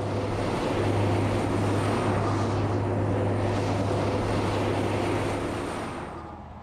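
A very long multi-trailer road train driving past, its engine hum and the rush of many tyres on the road running steady, then fading away near the end.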